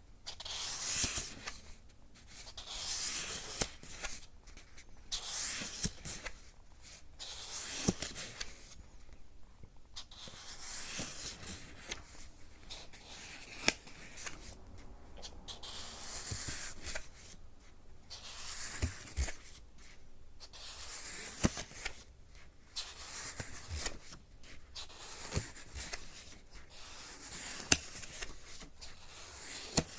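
Close-up rubbing and scratching noises in repeated soft strokes, one every second or so, with a few sharp clicks between them.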